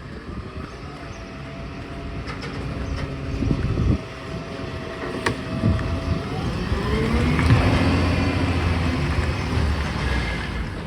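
Garbage truck running, with its engine revving up about two-thirds of the way through, rising in pitch, and a sharp knock a little before that.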